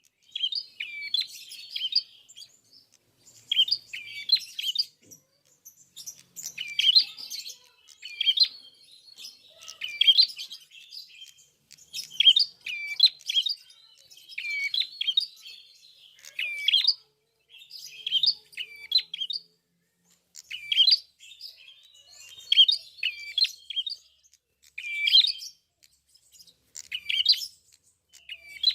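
Prenjak kepala merah (klawu), a prinia, singing in full voice: short phrases of sharp, quick chirps repeated every second or two.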